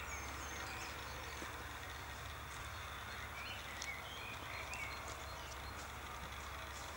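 Outdoor ambience of birds chirping now and then, short calls over a steady low rumble.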